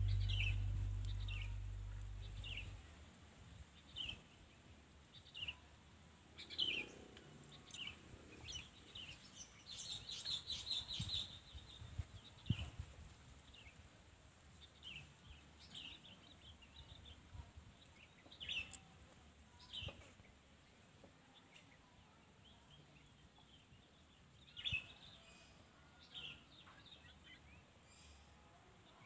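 Birds chirping faintly, in short high descending chirps every second or so, with a quicker run of chirps about ten seconds in. The tail of background music fades out in the first couple of seconds.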